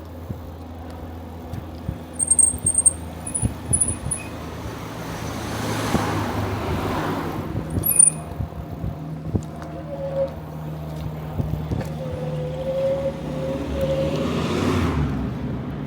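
Two cars pass on the road, each rising and fading away, the first about six seconds in and the second near the end, over the steady rolling noise of the bicycle. Short high chirps, likely birds, come a couple of times early on.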